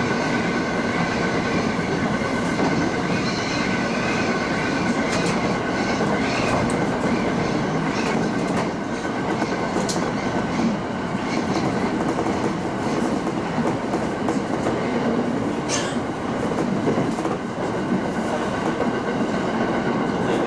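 Local train running between stations, heard from inside the car: a steady rumble of wheels on rail with clickety-clack from the rail joints. There are scattered clicks, with one sharp click about 16 seconds in.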